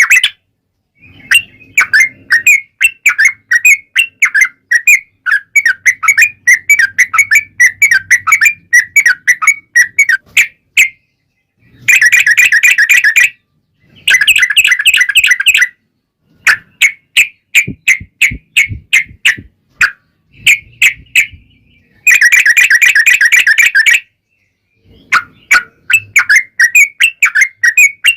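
Yellow-vented bulbul (trucukan) singing its long, rapid chattering song, a recording played to draw other bulbuls into answering. Fast runs of notes come in phrases of a few seconds, with brief silences between them, and three dense chattering bursts around the middle and near the end.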